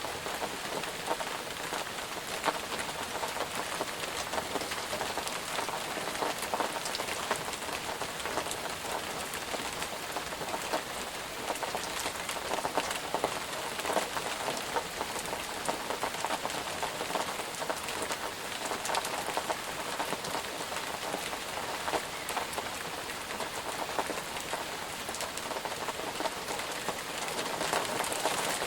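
Steady rain falling on a hard surface, a dense patter of many small, sharp drops with no thunder.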